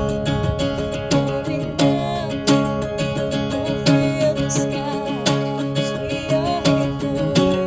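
Acoustic guitar strummed in a steady rhythm, a chord stroke about every two-thirds of a second.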